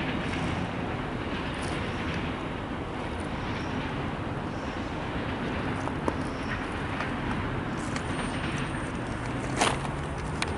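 Freight train of autorack cars rolling away into the distance, a steady rumble, with a sharp click near the end.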